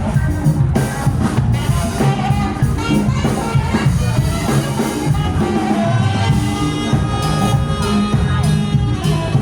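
A live band playing a song: drums and bass under sustained higher instrument notes.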